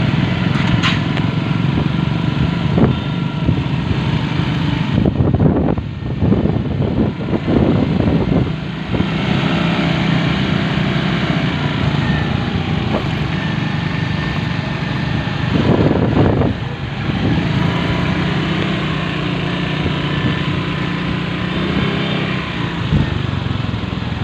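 Motorcycle engine running on the move in city traffic, its pitch shifting with speed. Rushes of noise come about five to nine seconds in and again around sixteen seconds.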